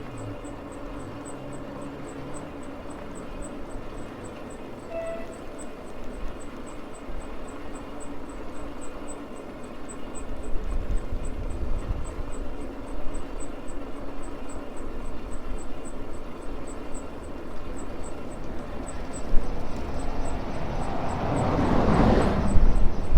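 Ride noise on a Maxtron Mule folding e-bike: a faint steady motor hum under tyre and wind noise, with a faint high ticking about twice a second. Wind rumble on the microphone builds from about ten seconds in. Near the end a passing vehicle swells up and fades.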